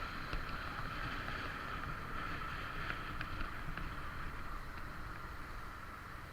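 Steady rushing noise of a motorcycle ride: wind on the microphone and road rumble, with a few faint ticks.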